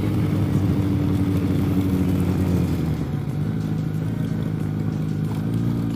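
Motorcycle engine running steadily at low revs, settling slightly lower and quieter about halfway through.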